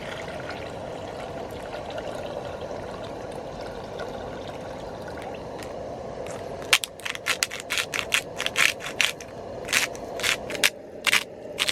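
A steady rushing background noise. About two-thirds of the way in it gives way to a quick run of sharp clinks and clatters from metal cooking gear, about a dozen, that goes on to the end.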